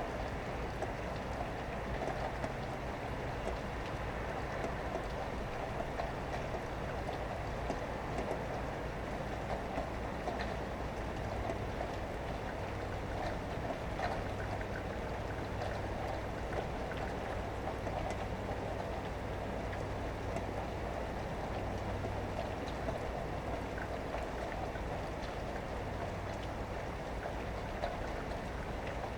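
Steady rain falling, with a low rumble of vehicles underneath, heard through an open window.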